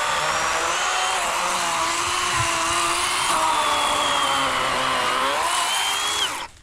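WORX WG384.9 40-volt electric chainsaw with an 18-inch Oregon bar cutting down into a fallen log from the top, its motor whine dipping in pitch under load. Near the end the saw is let off and the whine falls away quickly and stops.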